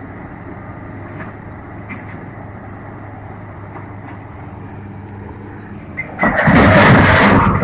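A heavy vehicle's engine runs steadily. About six seconds in, a sudden loud, rushing noise breaks in and lasts to the end.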